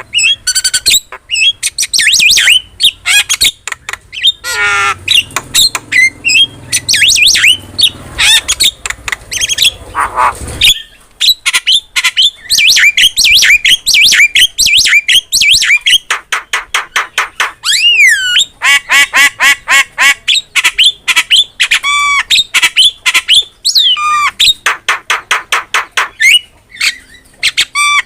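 Javan myna singing at full intensity: a long, varied stream of harsh squawks, sweeping whistles and runs of rapid, evenly repeated chattering notes.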